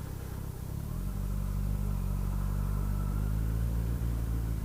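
Kawasaki GTR1400's inline-four engine running at low, steady revs while rolling slowly, its note growing louder and steadier about a second in.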